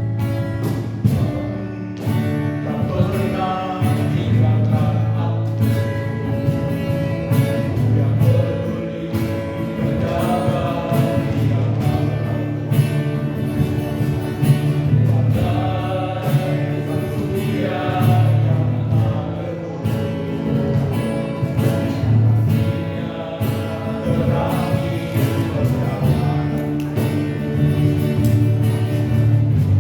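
A choir singing a gospel song over instrumental accompaniment with steady low notes and a regular strummed beat.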